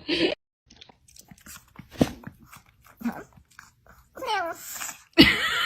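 A dog chewing, with scattered crunching clicks. Then comes a short call that falls in pitch, and near the end a louder high, wavering cry.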